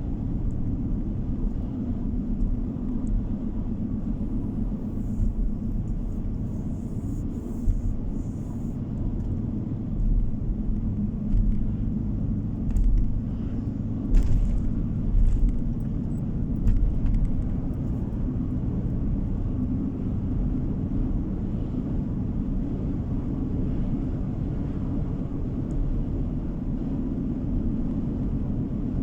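Steady low rumble of a car driving, road and engine noise heard from inside the cabin, with a few short knocks between about ten and seventeen seconds in.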